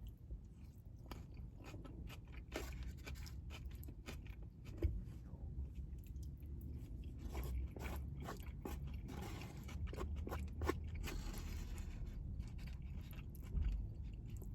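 Close-miked chewing and biting of a burrito bowl of brisket, rice, beans and guacamole, with many small wet mouth clicks and a longer scraping stretch about nine seconds in.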